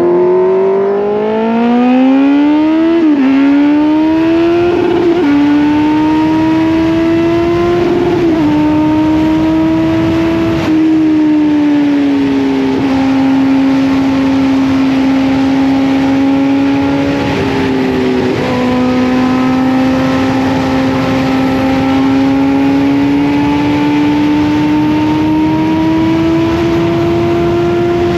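Kawasaki Z900's inline-four engine pulling hard through the gears, its pitch climbing and dropping at each of four quick upshifts in the first eleven seconds. It then holds a steady cruise, with one more shift about two-thirds of the way through, over a steady rush of wind.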